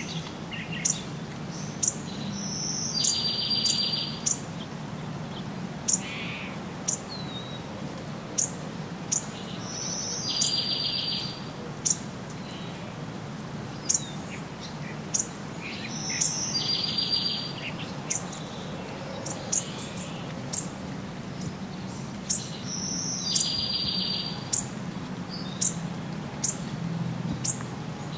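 Birds calling: one repeats a short high note followed by a buzzy trill about every six to seven seconds, among many sharp high chirps, over a steady low rumble.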